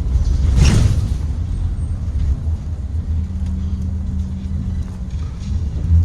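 Interior ride noise of a Blue Bird Vision school bus with a Ford 7.3L gasoline V8: steady low engine and road rumble, with a short sharp rattle about half a second in, a steady engine hum in the middle and a thump near the end.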